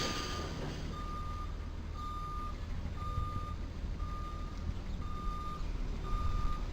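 Truck's reversing alarm beeping steadily, about once a second, over a low engine rumble.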